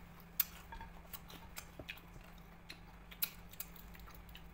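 Faint crunching and clicking of crispy chicharon baka (fried beef-skin crackling) being chewed and broken apart by hand. The sound comes as scattered sharp clicks, the loudest about half a second in.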